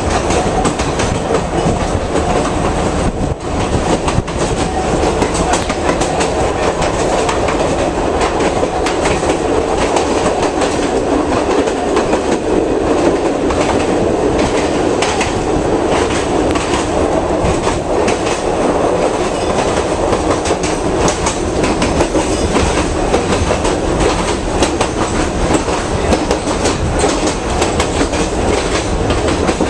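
Vintage Sóller railway electric train heard from inside its wooden passenger carriage while running: a loud, steady rumble with a constant clatter of clicks from the wheels over the rails.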